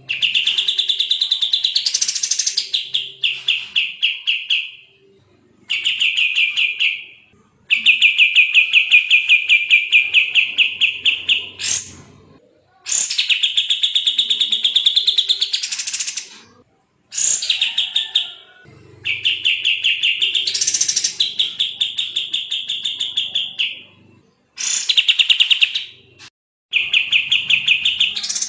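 Kapas tembak, a bulbul, singing in fast, tight bursts of rapidly repeated chattering notes. There are about eight bursts, each lasting one to five seconds, with brief pauses between them.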